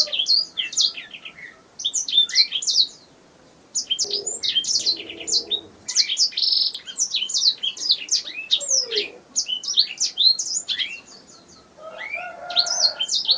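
Domestic canary singing: fast runs of high chirps, trills and whistles in long phrases broken by brief pauses.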